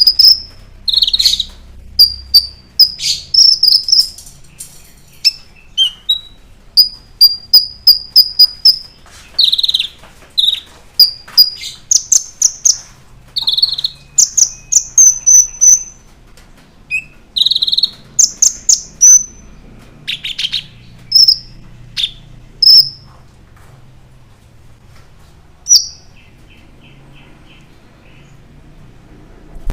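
A kolibri ninja sunbird (konin) calling energetically: loud, short, sharp high chirps and quick trills in rapid runs, thinning out to a few isolated notes in the last third.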